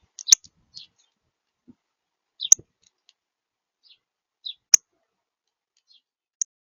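A small bird pecking at seed in a feeder, picked up close by the feeder camera's microphone: four sharp taps about two seconds apart, each led by softer scratchy clicks.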